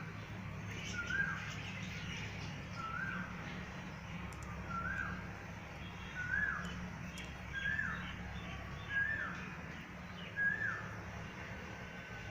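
A bird repeating the same short call about once a second, each note rising and then dropping, with fainter chirping of other birds behind it and a steady low hum.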